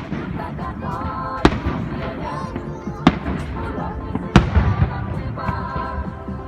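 Fireworks going off: four sharp bangs at intervals of a second or so, the last one the loudest, over music and voices.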